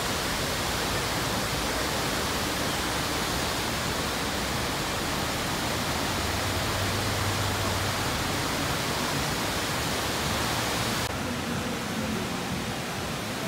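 Waterfall rushing: a steady, loud roar of falling water. Near the end the highest hiss drops away suddenly and the rush turns duller.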